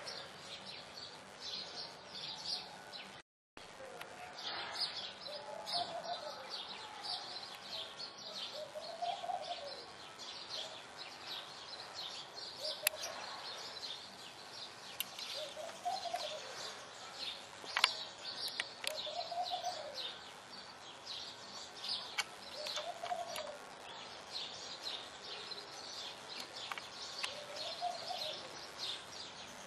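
Small garden birds chirping continually in quick high notes, with a dove cooing a low, arched note about every three seconds. The sound cuts out for a moment about three seconds in, and two sharp clicks stand out in the middle.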